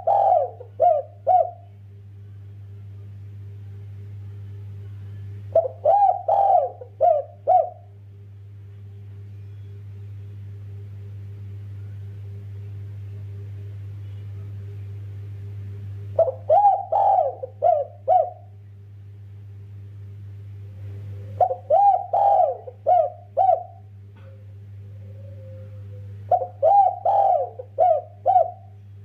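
Spotted dove (derkuku) cooing: five phrases of four or five quick, loud notes each, spaced several seconds apart, over a steady low hum.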